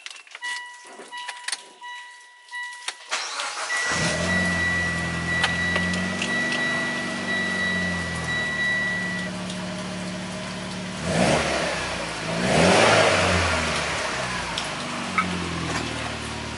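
Mitsubishi Lancer Evolution X's turbocharged 2.0-litre four-cylinder starting for the first time through its newly fitted exhaust, catching a little under four seconds in and settling into a steady idle. There is a short rev about two-thirds of the way through. Electronic beeps come on and off before the start and run as a steady beep for a few seconds after it.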